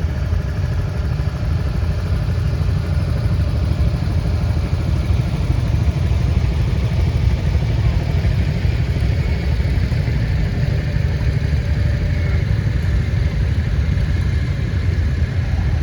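Vintage farm tractor engine running steadily at low speed, with a deep, even rumble.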